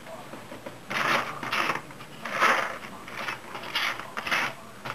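Metal engine parts and hand tools being handled during scooter engine assembly: several short bursts of scraping and rattling.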